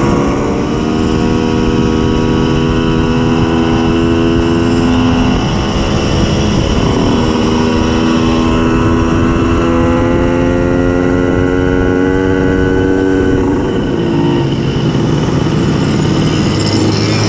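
Simson S51 moped's tuned 90 cc reed-valve two-stroke engine running hard at high revs under way. The engine note holds steady, drops briefly about six seconds in, climbs again, and drops once more near the end as the throttle eases.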